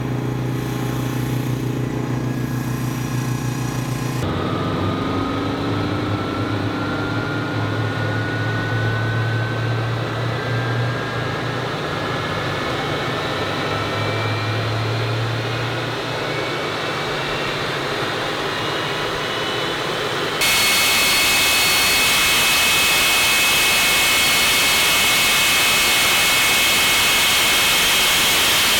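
J34 turbojet engine on a pontoon boat running, loud and steady. A whine climbs steadily in pitch over about fifteen seconds. From about twenty seconds in the sound jumps to a louder, steady jet noise with high whistling tones.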